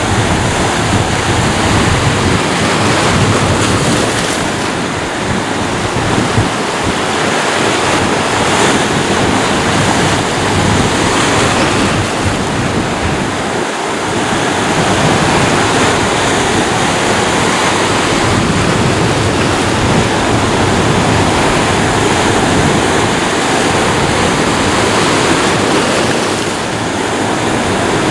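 Ocean surf: a steady rush of breaking and washing waves that swells and eases gently every several seconds.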